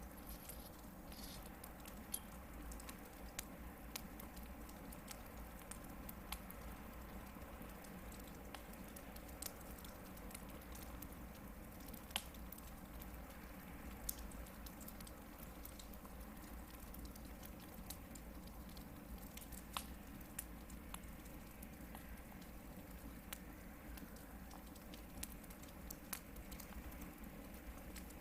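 Hardwood campfire burning, with irregular crackles and sharp pops from the logs over a low steady rumble.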